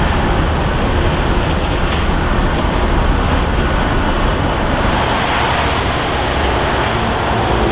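Condor Boeing 767-300's twin jet engines running, a loud, steady roar with a deep rumble underneath, as the airliner passes close by.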